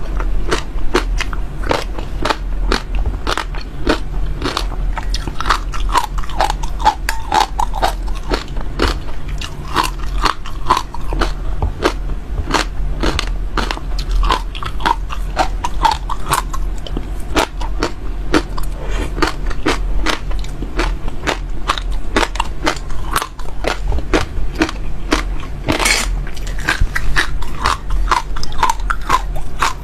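Close-up mouth sounds of seeds being bitten and chewed: a dense, continuous run of sharp little crunches and crackles, several a second, with a bigger crunch about 26 seconds in. A steady low hum runs underneath.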